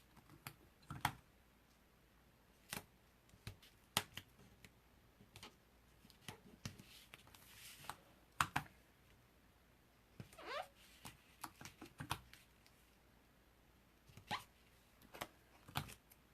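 Scattered light clicks and taps of hands working paper and adhesive on a craft table, with a soft brief rasp about seven seconds in and a short rising squeak about ten seconds in.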